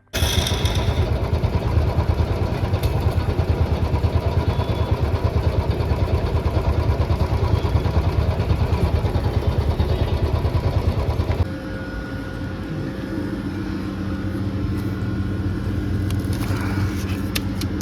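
Motorcycle engine running with a fast, even pulsing beat; about eleven seconds in the sound drops suddenly and becomes quieter and smoother.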